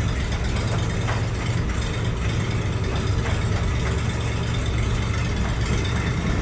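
Ford 302 V8 in a 1936 Divco Twin bread truck running steadily.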